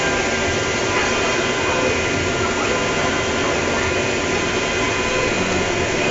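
Pattern-cutting machine for cardboard running steadily, a continuous mechanical whir with several held tones and no breaks.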